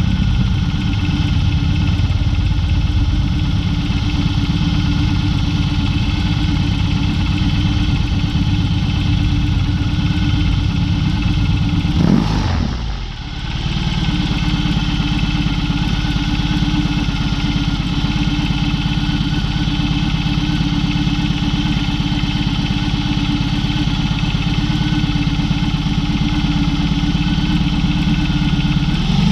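BMW R18's 1802 cc boxer twin running at a steady, unchanging speed through a Dr. Jekill & Mr. Hyde exhaust. About twelve seconds in there is a brief surge, then a short dip in the sound, before it settles back.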